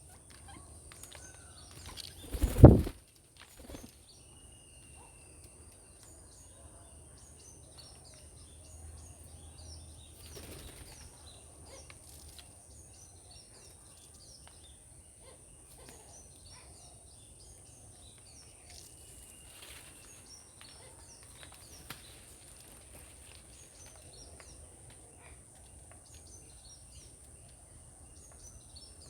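Birds feeding outdoors: scattered short chirps and small clicks over a steady high-pitched hiss, with one sudden loud burst of noise about two and a half seconds in.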